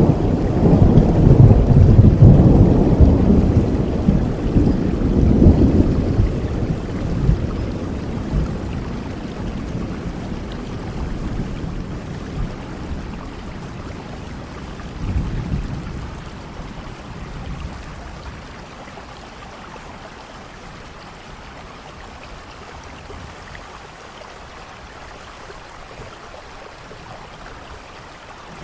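Steady rain with rolling thunder: a long, loud rumble in the first few seconds that slowly fades, a shorter rumble about halfway through, and then only the rain.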